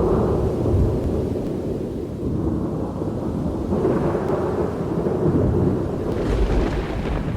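Thunder rumbling on and on in deep, rolling waves. A sharper peal breaks in about six seconds in.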